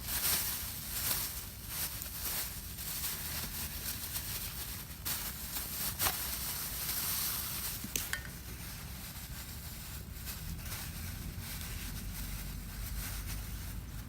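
Campfire burning with a steady hiss and a few sharp crackles.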